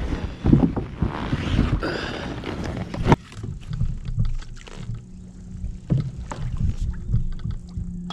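A kayak being paddled: water sloshing with frequent knocks of the paddle and gear against the hull. The sound drops suddenly to quieter low thumps about three seconds in.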